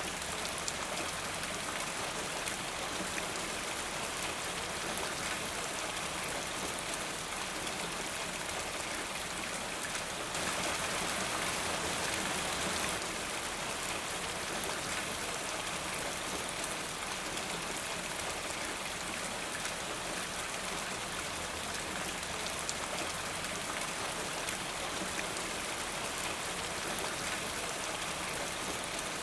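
Steady rain falling, with fine drop patter over an even hiss; it swells slightly for a few seconds around ten seconds in.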